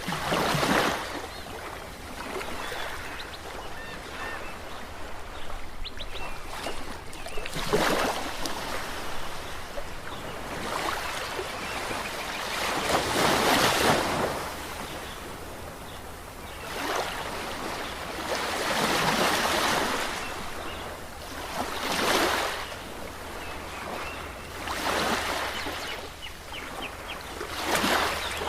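Ocean surf: waves breaking and washing up the shore, swelling in a new surge every few seconds, loudest about halfway through.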